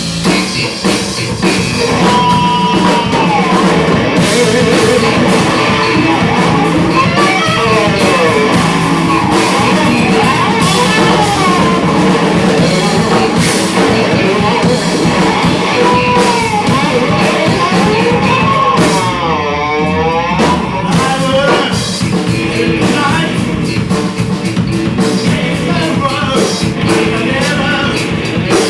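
A rock band playing live, with drum kit and guitar and a melodic line that bends up and down, which sounds like singing.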